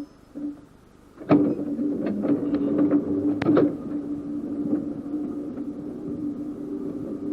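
Small electric tram running along its track: a steady hum, with a sharp knock about a second in and a run of clicks over the next couple of seconds, like wheels passing over rail joints.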